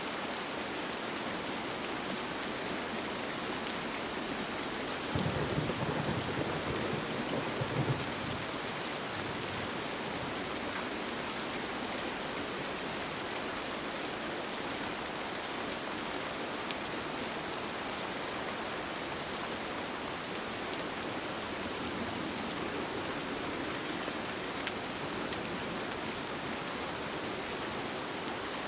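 Steady rain falling on a tent, with a low rumble of thunder for about three seconds, starting about five seconds in.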